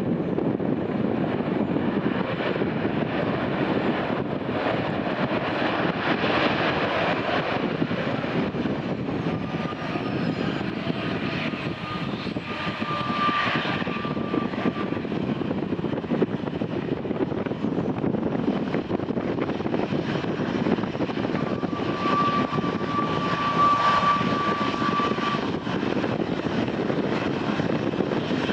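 Jet airliner engines running, a steady rumble with a thin high whine that comes in twice, about a third of the way in and again later.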